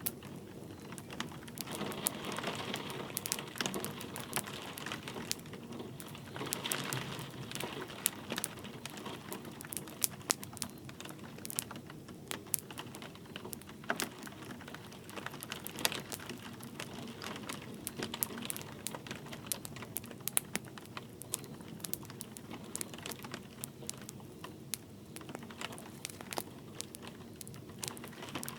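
Wood fire crackling in a fireplace, with frequent sharp pops over a steady hiss of light rain.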